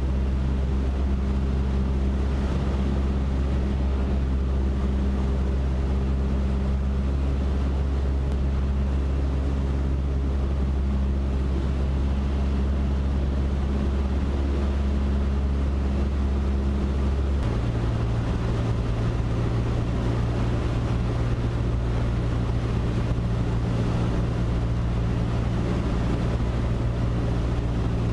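Cessna 152's four-cylinder Lycoming engine running steadily in the cockpit on final approach, its note shifting abruptly about two-thirds of the way through as the power setting changes.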